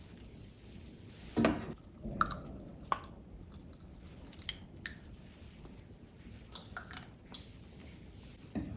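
Scattered light clicks and knocks, a dozen or so at uneven intervals, the loudest about a second and a half in.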